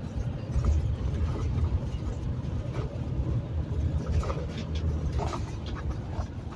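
Steady low road rumble of a vehicle driving at speed on a highway, engine and tyre noise heard from inside the cab.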